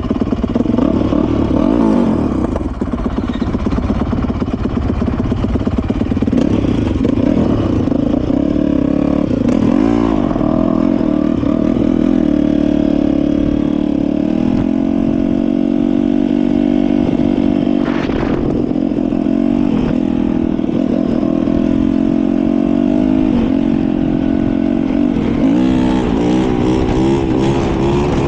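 Dirt bike engine running under way, its pitch rising and falling with the throttle and holding steady for a long stretch in the middle.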